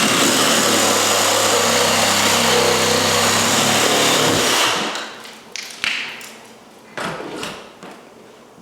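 Electric power tool cutting into a house wall, running steadily for about four and a half seconds and then stopping. A few knocks and taps follow.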